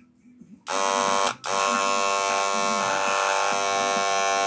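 Wahl Senior hair clipper switched on, cutting out briefly and starting again, then running with a loud, steady buzz. It is a test run after a blade swap, and the way it runs shows that the problem is not the blade.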